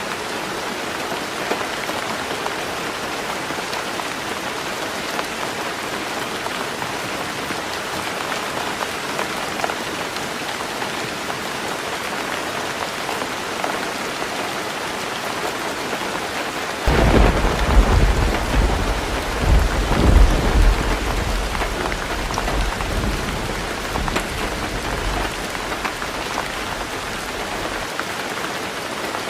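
Heavy rain falling steadily on a tin roof. A little past halfway, thunder breaks in suddenly and rumbles deep and loud for several seconds with two peaks, then fades away under the rain.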